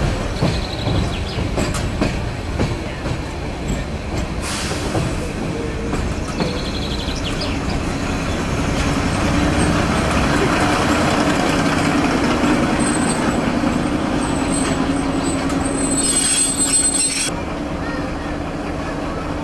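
Narrow-gauge train of the Budapest Children's Railway running on its track: a continuous rumble with wheels knocking over the rails, growing louder in the middle with a steady hum and a thin high wheel squeal, then dropping suddenly to a quieter rumble near the end.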